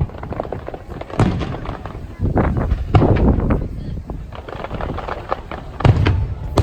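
Aerial fireworks bursting in a series of sharp booms that echo. There is one loud bang about a second in, a denser run of bangs and crackles in the middle, and more bangs near the end.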